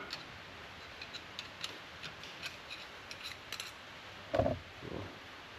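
Light metallic clicks and clinks of hand tools working on a truck's rear drum brake assembly, irregular and scattered, with a couple of duller, louder knocks a little over four seconds in.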